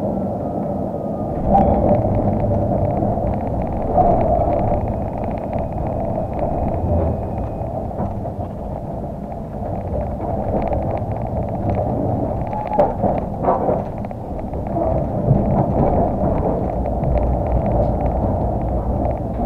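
Tram running on its rails, heard from inside the car: a steady rumble and rattle with sharp knocks and clatters about a second and a half in, at four seconds, and around thirteen seconds.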